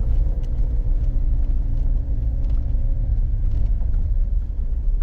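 Suzuki Jimny driving on a gravel road: a steady low rumble of engine and tyres, with a faint engine hum over it.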